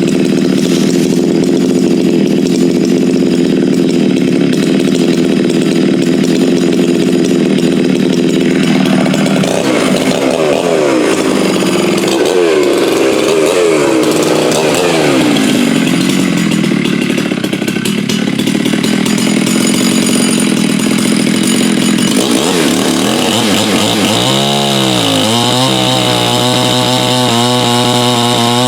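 Farmertec MS 660 clone two-stroke chainsaw, its exhaust port lowered one degree, running hard at high revs. From about nine to sixteen seconds the engine pitch repeatedly sags and climbs back, and it dips once more near the end before running steady again.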